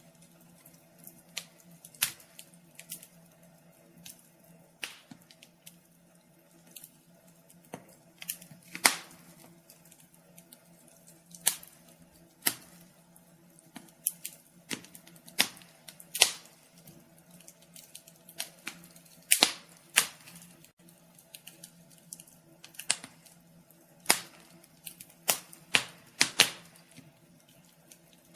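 Wood fire crackling: irregular sharp pops and snaps at uneven intervals, some loud and some faint, over a faint steady low hum.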